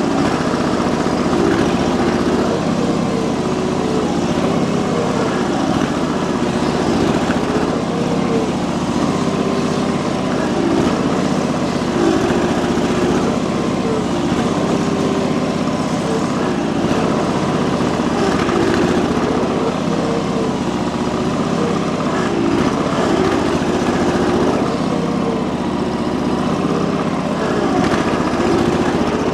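445 garden tractor's engine running hard under load as it drags a 1000 kg compact tractor with locked wheels. Its note keeps sagging and recovering every second or two as the load bears on it.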